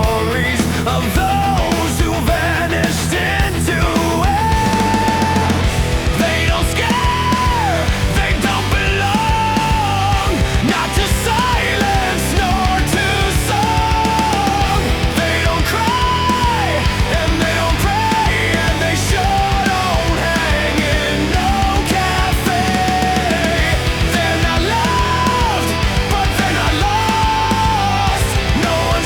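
Heavy rock music: a full band with a steady beat under a melodic lead line of long held notes, some sliding down at their ends.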